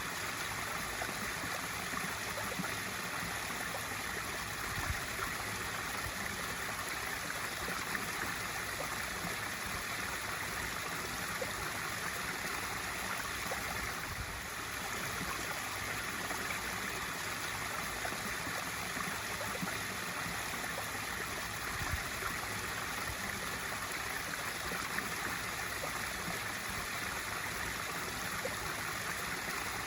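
Swimming pool waterfall feature: water spilling steadily into the pool with a splashing, trickling hiss.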